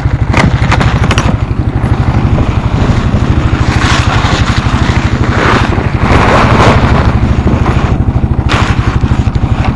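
1992 Suzuki four-wheeler's engine idling on a cold start, a steady, even chug. Wind buffets the microphone, gusting twice around the middle.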